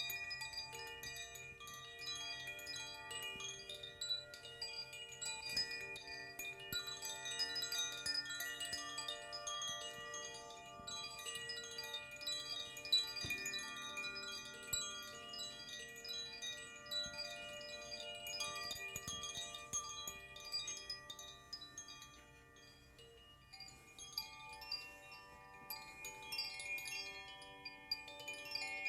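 Wind chimes tinkling continuously in a sound bath, over a bed of held, overlapping ringing tones. The chiming thins out for a moment about three quarters of the way through, then fresh tones are struck and ring on.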